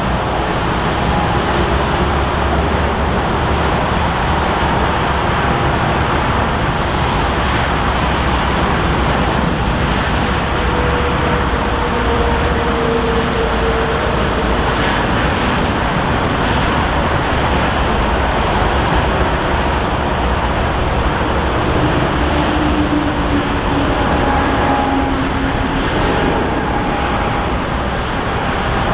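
Steady jet engine noise from a Boeing 787-9, with faint engine tones that slide slowly in pitch.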